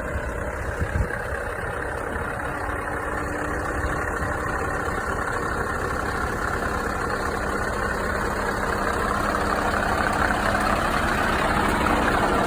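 Scania truck engine running steadily, growing gradually louder.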